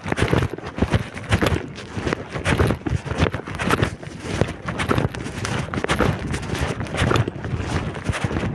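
Strong wind buffeting the microphone in an uneven low rumble, with a person's footsteps mixed in.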